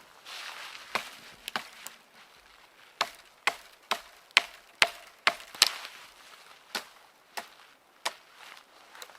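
Wood being chopped: a string of about a dozen sharp strikes, coming about two a second through the middle and more spaced out near the end.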